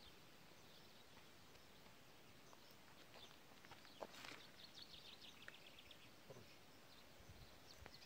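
Near silence: faint open-air hush, with a short run of faint bird chirps about halfway through.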